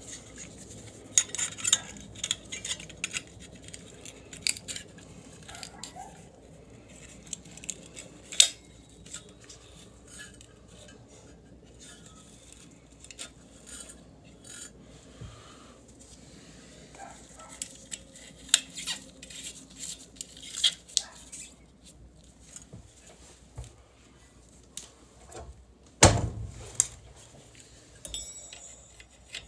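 Hand work on sheet metal: scattered light metallic clinks and clicks of tools and small hardware as a cover plate is fitted and fastened over a furnace igniter, with a sharp metal knock near the end.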